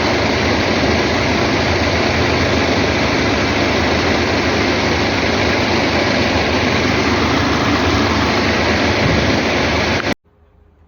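Steady, loud mechanical running noise that cuts off abruptly near the end.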